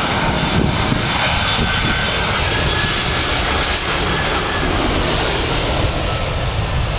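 Boeing 747-400 jet engines running loud and steady on landing, a dense rushing noise with high, thin whines that drift slightly in pitch.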